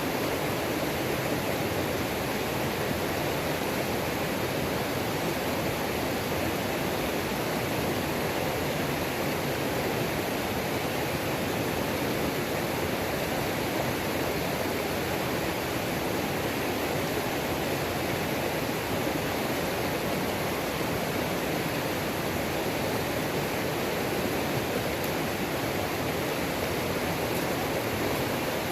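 Creek waterfall rushing, a steady, unbroken roar of falling and tumbling water.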